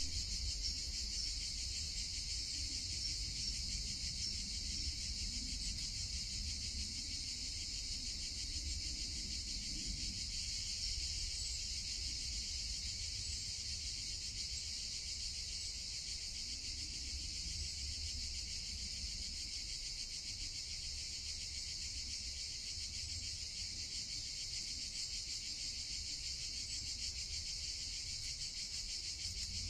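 Steady chorus of insects, a continuous high shrill trill that does not let up, over a faint low rumble.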